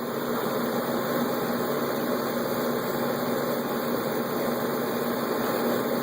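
A steady machine hum, an even noise with one constant low tone, that does not change.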